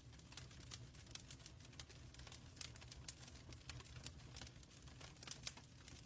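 Wood fire in a fireplace crackling, with many small irregular snaps and pops over a steady low rumble.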